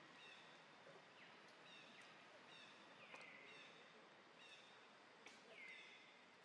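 Faint bird calls in the background: short chirps and downward-curving notes repeating about once a second, with a few soft clicks.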